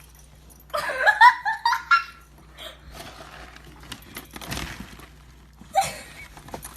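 A person laughing in a quick run of high-pitched bursts about a second in, with one more short laugh near the end.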